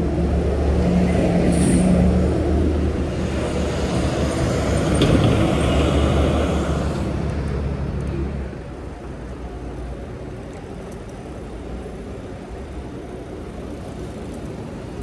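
Road traffic: a nearby motor vehicle's engine runs with a steady low hum for about eight seconds, then drops away to quieter background traffic.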